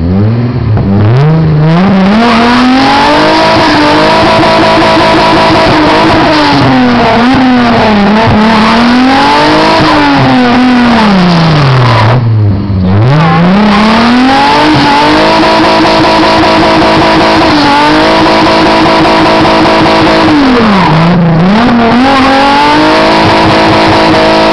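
Mk3 Volkswagen VR6 engine revved hard and held at high revs during a burnout, with a loud hiss of spinning tyres beneath it. The revs fall sharply twice, about halfway through and near the end, and climb straight back up.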